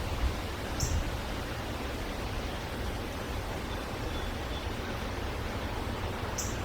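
Steady outdoor background noise, an even hiss over a low rumble, with two very short high-pitched chirps, one about a second in and one near the end.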